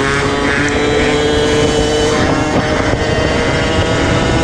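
Motorbike engine running while riding, its pitch climbing slightly and then easing off about two seconds in, over a steady rushing noise.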